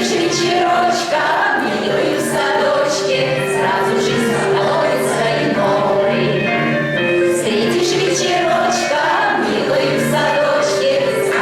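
A group of voices singing together in chorus over instrumental accompaniment, part of a medley of popular songs.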